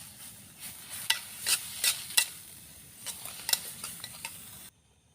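Food frying over a campfire, stirred with a utensil: a run of sharp scrapes and clicks against the pan over a steady sizzle. The sizzle cuts off abruptly near the end.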